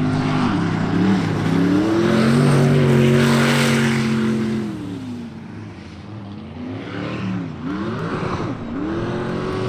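Sprint boat's racing engine running hard around the course, its revs held high, then dropping and climbing back several times as the driver lifts and reapplies throttle.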